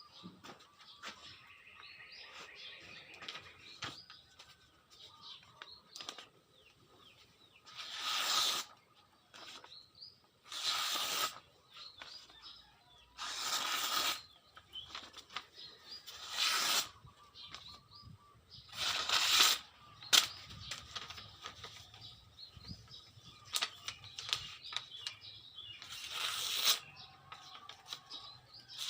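Slow, evenly spaced scraping strokes, roughly one every three seconds and each lasting under a second. Small birds chirp in the background.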